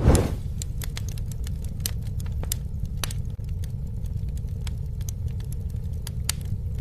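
Wood campfire burning with a steady low rumble and frequent sharp crackles and pops, with one louder rush of flame right at the start.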